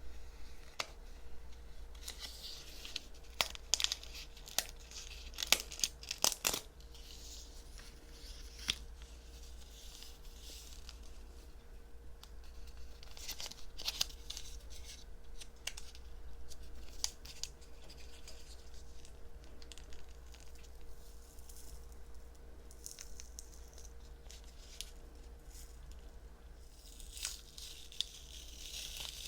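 An adhesive bandage (Band-aid) being handled close to the microphone: its wrapper is torn open and crinkled, in short clusters of crisp tearing and crackling with sharp little clicks, quieter in the middle.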